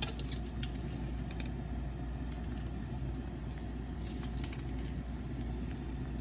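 Egg and sausage frying in oil in a nonstick pan, sizzling with scattered light crackles and pops, over a steady low hum.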